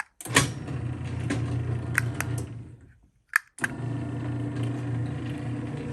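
LiftMaster garage door opener motor running with a steady hum. It winds down and stops a little before halfway, then starts again with a click about a second later and runs on.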